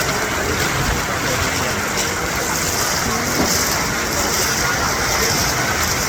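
Heavy typhoon rain, a steady loud hiss with no breaks.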